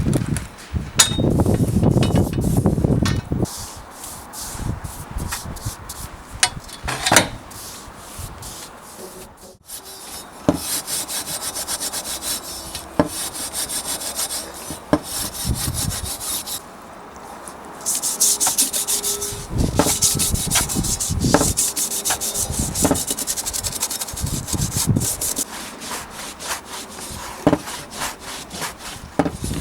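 Wood being worked by hand: rubbing and scraping strokes, like sanding or rasping, mixed with frequent short knocks and clicks. The sound changes abruptly a few times.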